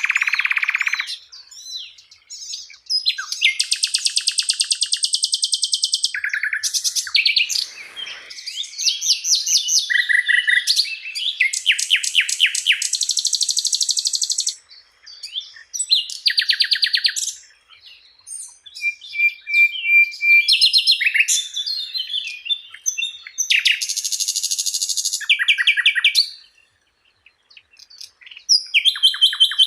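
Songbird singing a long, varied masteran (tutor) song of rapid trills, buzzy rattles and high chattering phrases, broken by short pauses.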